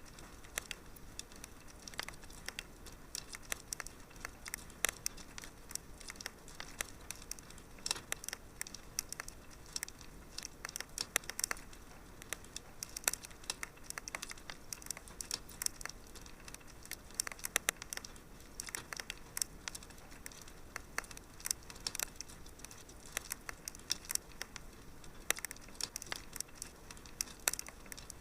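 Wood fire in a fireplace crackling: frequent irregular sharp pops and snaps over a soft steady hiss.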